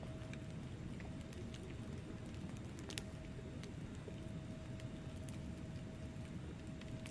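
Wood fire burning in a fireplace: a low rumble of flames with scattered crackles and pops, one sharper pop about three seconds in. A faint steady hum runs underneath.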